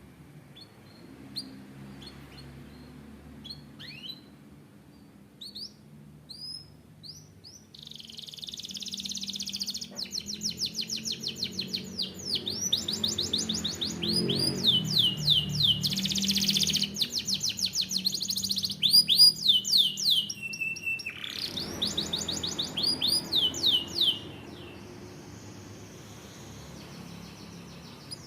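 Canary singing: scattered single chirps at first, then, about a quarter of the way in, a long fast trilled song of rapidly repeated high notes. The song stops a few seconds before the end.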